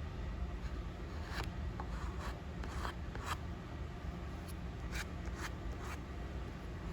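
Masking tape being pulled off the roll and rubbed down by hand: a series of short, irregular scratchy rips and rubs, about a dozen, over a steady low hum.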